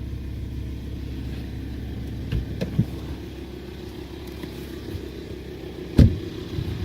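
Volkswagen Touareg 2.5 TDI inline-five diesel idling with a crackling rattle from its rear timing gears. The owner blames this on gear backlash, a known weakness of these engines. A few light knocks sound around two and a half seconds in, and a single loud knock comes about six seconds in.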